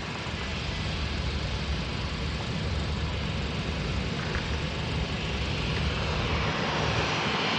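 Jet aircraft engine roar growing steadily louder as the plane comes closer.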